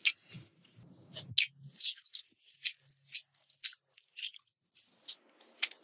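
Close-miked chewing of food: a run of short, crisp crunches and wet mouth clicks, roughly two a second.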